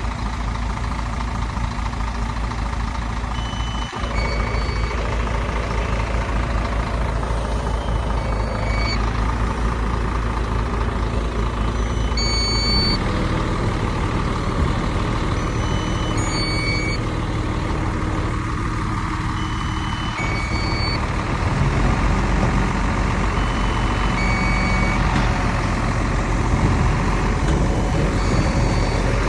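Heavy diesel earthmoving machinery, a dump truck and a bulldozer, running steadily, with a backup alarm giving short high beeps every second or so.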